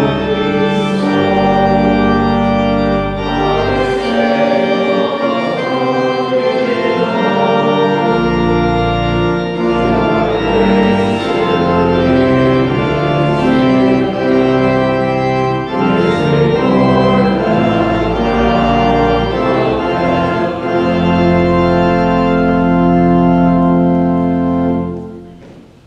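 Church organ playing sustained chords, a hymn or interlude, dying away near the end.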